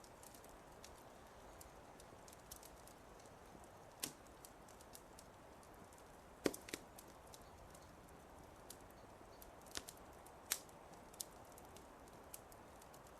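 Wood fire crackling: scattered small pops over a soft steady hiss, with a few louder snaps about four, six and a half, and ten seconds in.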